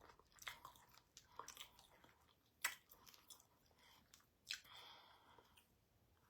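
A person chewing food close to the microphone: faint wet mouth clicks and smacks, with two louder ones about two and a half and four and a half seconds in.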